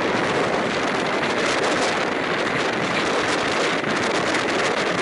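Steady rush of wind on the microphone mixed with the running noise of a passenger train's wheels on the rails, heard from an open carriage window of the moving train.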